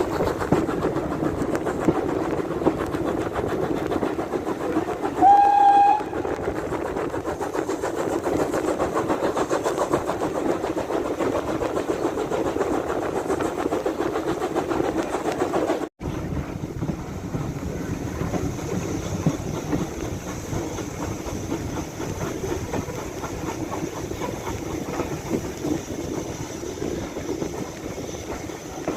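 Heritage passenger train running along the line, with a steady rumble and wheels clacking on the rails. A single short whistle sounds about five seconds in.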